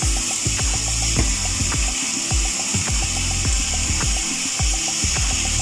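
Minced meat and vegetables sizzling in a hot frying pan as sweet soy sauce is drizzled over them, a steady hiss. Background music plays underneath.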